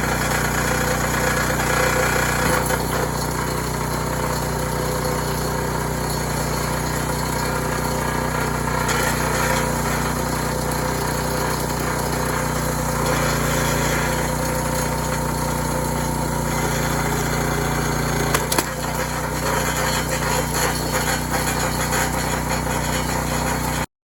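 Small gasoline engine of a log splitter running steadily, with a single sharp knock about three quarters of the way through; the sound cuts off abruptly just before the end.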